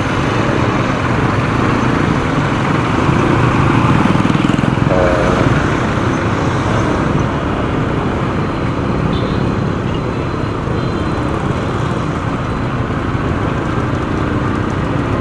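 Steady road noise from riding a motorcycle in traffic: wind on the microphone over the engine and passing vehicles.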